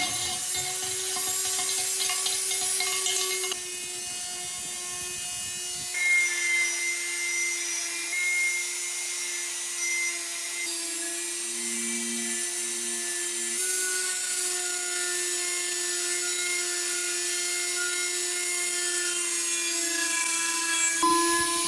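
An electric power tool's motor running steadily, probably grinding or polishing the blade, heard in several short cut-together stretches; the steady hum of the motor shifts a little in pitch at each cut.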